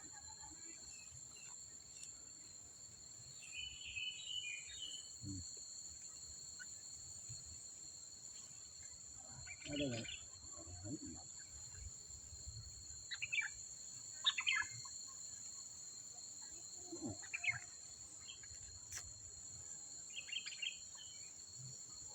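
Steady, high-pitched insect drone of crickets or cicadas, with short bird calls breaking in now and then.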